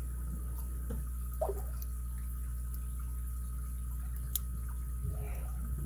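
Small clicks of a lock pick working the pins of an ABUS 83CS/55 padlock under light tension. One sharp click about four seconds in is a pin setting. A steady low hum runs underneath.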